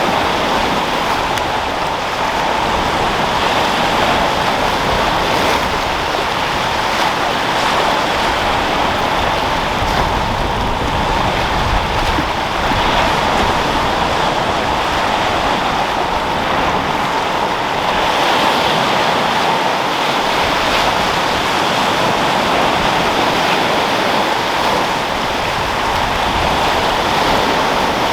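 Sea surf washing in steadily, with wind: a continuous, even rush of breaking waves and no single crash standing out.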